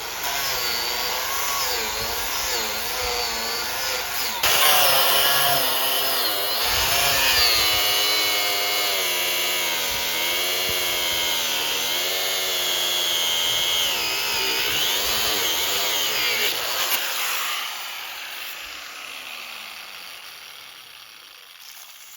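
Electric angle grinder with a cut-off wheel cutting through a 3/4-inch steel sucker rod. Its pitch wavers as the wheel bogs under load, and it gets louder about four seconds in. Near the end the trigger is released and the motor slowly winds down.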